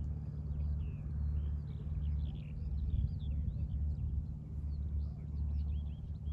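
Small birds chirping and twittering over a loud low rumble that swells and fades.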